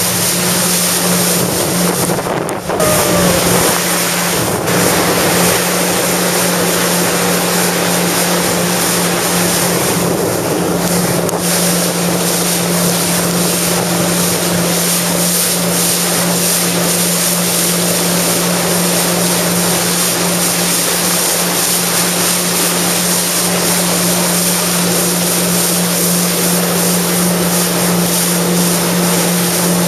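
Jet ski engine running steadily at speed, with water and wind rushing past, and a brief dip in loudness about two and a half seconds in.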